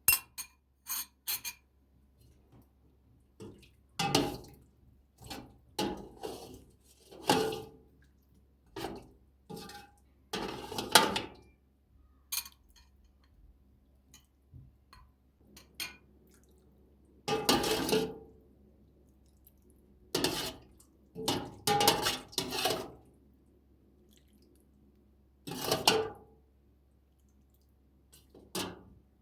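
Dishes and cutlery clinking and clattering as they are handled, in separate short bursts with pauses of a second or more between them.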